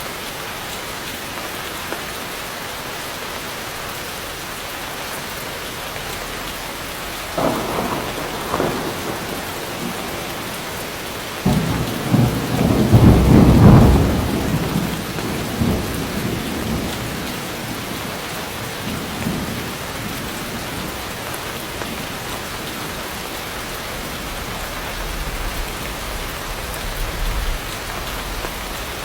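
Heavy rain falling steadily, with thunder: a sharp clap about seven seconds in, then a louder peal around twelve seconds in that rolls on and fades in rumbles, and a low rumble near the end.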